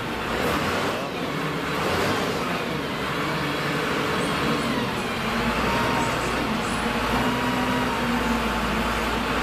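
Heavy diesel machinery running steadily, with a faint whine that wavers in pitch over the engine noise.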